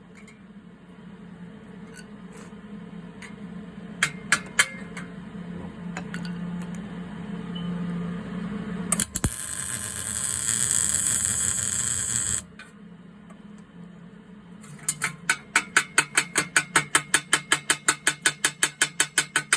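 A few sharp knocks, then a welding arc hissing and crackling for about three seconds, starting and stopping abruptly. After it comes a run of rapid, even clicks, about four or five a second.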